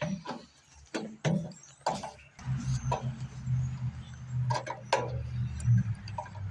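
Sharp metal clicks and knocks from handling the wood chipper's fuel line and shutoff valve. About two and a half seconds in, a steady low hum starts and keeps going.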